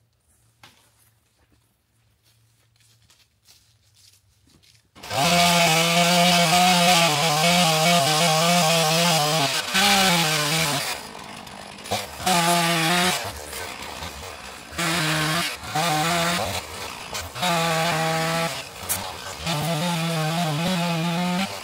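Near silence for about five seconds, then a two-stroke chainsaw comes in suddenly at full throttle, bucking a downed cottonwood. About halfway through it drops to idle and is then revved up again in several bursts, falling back to idle between cuts.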